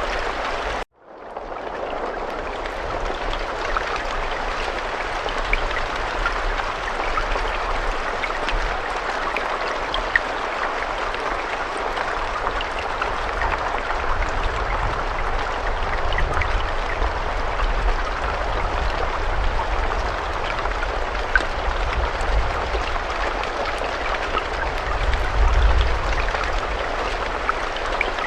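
Steady heavy rain: a continuous hiss of falling water with scattered individual drops ticking through it. About a second in, the sound drops out to silence for a moment, then fades back up, like a loop seam in the recording. A low rumble underneath swells briefly near the end.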